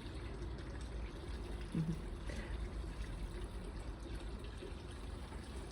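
Garden pond water trickling steadily, fed by the pond's pump and filter.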